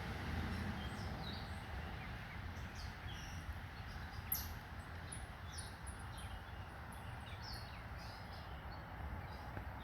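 Songbirds chirping now and then, short high calls scattered through, the loudest about four seconds in, over a steady low outdoor hum.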